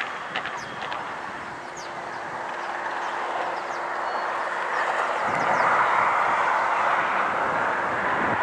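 Freight train of tank wagons rolling slowly into a station, the noise of wheels on rails swelling and peaking from about five seconds in, with a steady hum over the first half.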